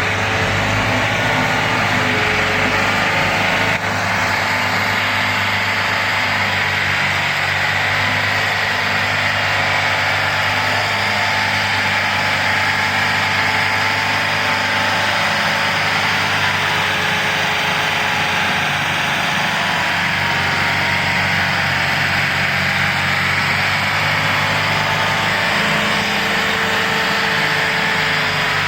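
Tractor diesel engine running steadily at a constant speed, with a brief dip about four seconds in.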